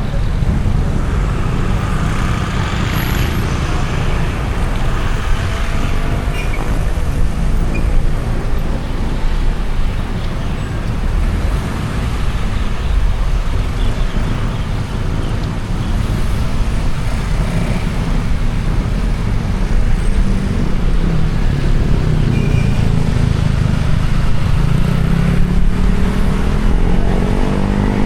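Road traffic heard from a car on the move: a steady low rumble of engines and tyre noise. Near the end an engine climbs in pitch as it speeds up.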